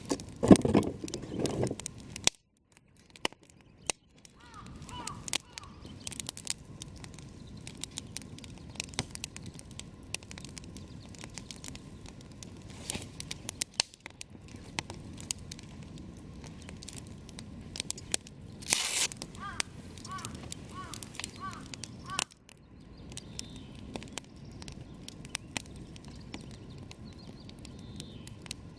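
Wood campfire crackling, with a steady stream of sharp pops and snaps over the low sound of the burning. A louder burst of crackle comes past the middle, and a few short high chirps sound twice. The sound cuts out for a moment near the start.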